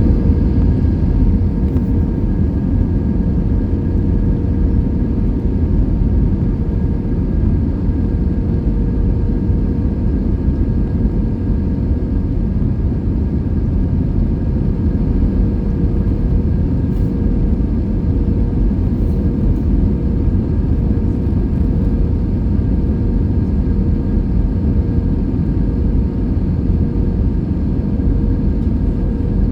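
Airbus A320 airliner's engines and airflow making a steady, loud low rumble, with a constant whine of several steady tones over it.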